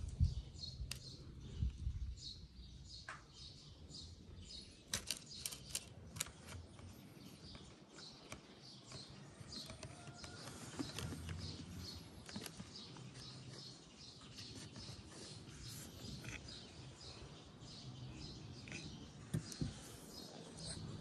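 Small birds chirping over and over in the background, with a few light clicks and knocks of handling about five to six seconds in.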